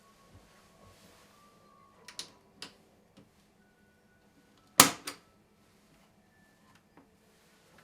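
A few sharp clicks and knocks, the loudest a double click about five seconds in, over faint steady tones.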